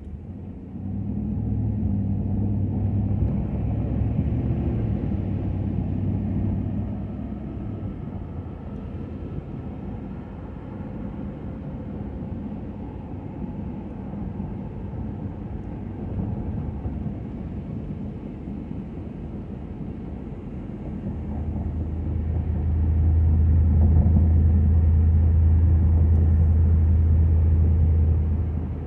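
Ford F-250 pickup's engine running with a low, steady hum. It grows louder for several seconds about a second in, and again for the last several seconds before dropping off sharply at the very end.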